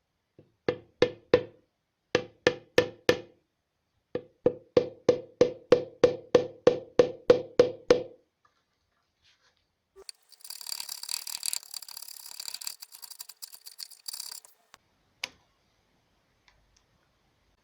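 Repeated sharp taps on wood, each ringing briefly with a clear tone: a run of three, a run of four, then about a dozen at roughly three a second. After a short pause comes about four seconds of scraping, ending in a single click.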